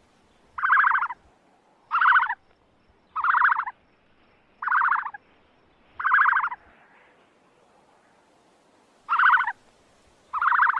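A bird's harsh, pulsed call repeated seven times. Each call lasts about half a second and they come roughly every second and a half, with a longer pause before the last two.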